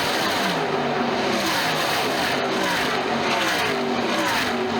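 NASCAR Truck Series race trucks' V8 engines running at speed in a pack, several passing one after another with their pitch falling.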